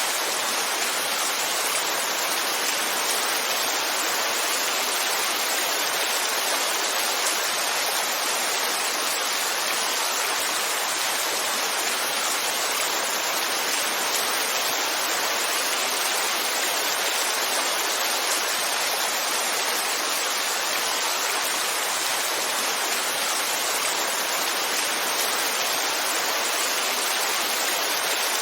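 Heavy rainfall falling as a steady, even hiss, with no thunder or separate drops standing out.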